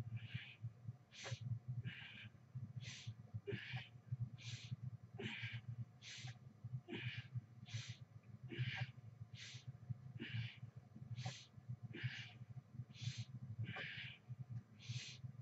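A person breathing hard and rhythmically while exercising, with short breaths in and out alternating about once a second, one higher-pitched than the other. A steady low hum runs underneath.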